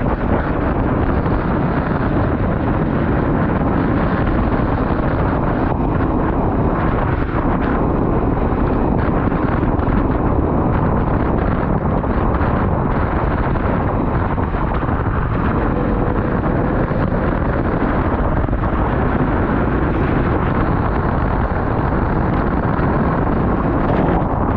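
Off-road 4x4 vehicle driving, a steady loud rumble mixed with wind buffeting the microphone.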